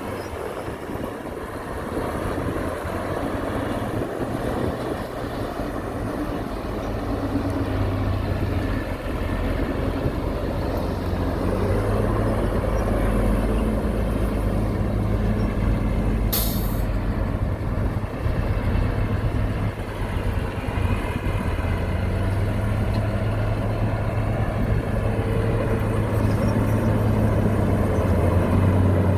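Heavy diesel earthmoving machinery running steadily, its drone growing louder over the first dozen seconds. A short, sharp hiss comes about halfway through.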